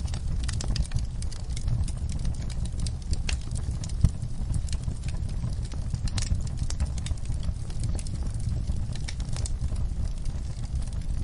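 Wood fire burning in a fireplace, crackling with irregular sharp pops over a steady low rumble, with one louder pop about four seconds in.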